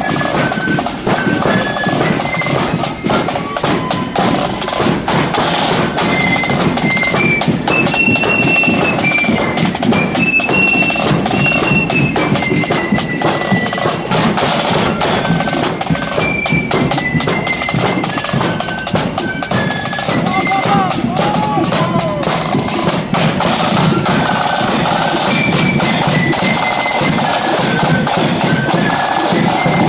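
Marching flute band playing a tune: flutes carry a stepping melody over continuous snare drum and bass drum beats.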